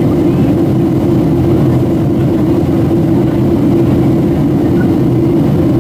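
Steady low drone of a Boeing 737-700's engines and airflow heard inside the passenger cabin while the airliner descends toward landing.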